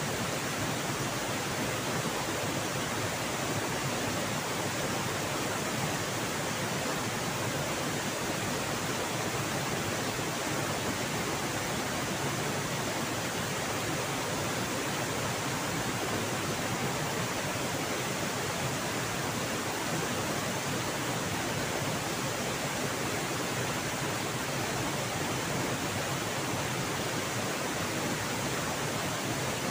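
Rushing water of a fast river at a waterfall: a steady, even rush that holds constant throughout.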